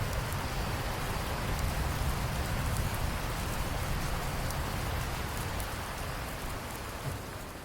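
Steady rain falling on a surface, a dense hiss of drops with a deep low rumble beneath; it begins to fade down near the end.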